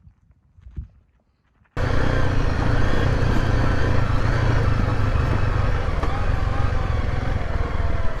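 Motorcycle riding on a dirt road: a loud steady engine rumble with wind noise that starts abruptly under two seconds in, after a near-quiet stretch with a few faint knocks.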